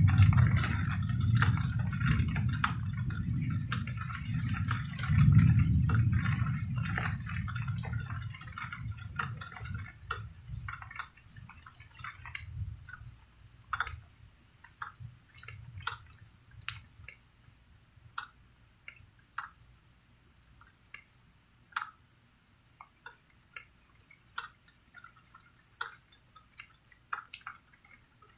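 Thunder rolling in a long low rumble that swells twice and fades out by about ten seconds in, over falling rain. After it come scattered drops of water dripping, a few a second and thinning out.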